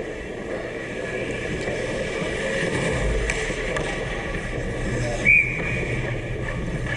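Ice hockey play: skates scraping on the ice and sticks clicking over a murmur of voices, with a brief high tone about five seconds in.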